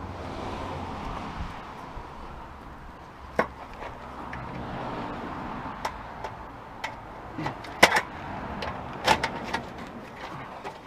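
Scattered sharp clicks and knocks of tools and loose metal parts as an old electric coil stove is taken apart by hand, with the loudest knocks a little past the middle.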